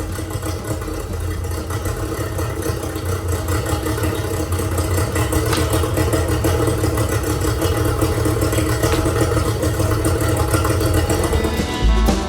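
1999 Yamaha 30 hp two-stroke tiller outboard running steadily, slowly growing louder.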